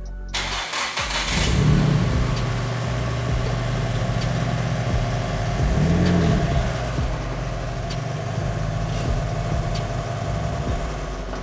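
Nissan S15's turbocharged SR20DET four-cylinder engine starting, then running with two short revs, about two seconds and six seconds in.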